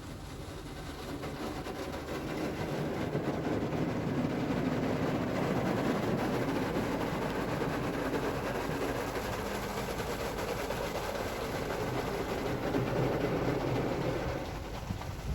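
Istobal MNEX 22 rollover car wash machine running over the car, a steady rushing noise that builds over the first few seconds and falls away near the end as the machine passes.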